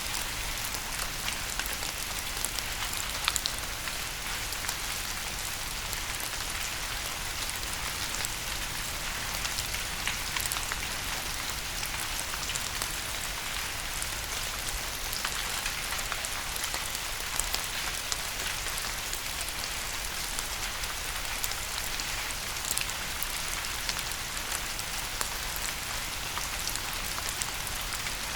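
Steady rain falling on a surface, a constant hiss sprinkled with sharp individual drop patters, a few louder drops standing out now and then.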